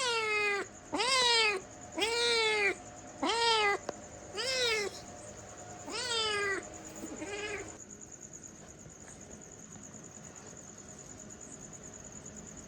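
A domestic cat meowing seven times in a row, each meow rising and then falling in pitch, the last one shorter and fainter. The meowing stops about eight seconds in.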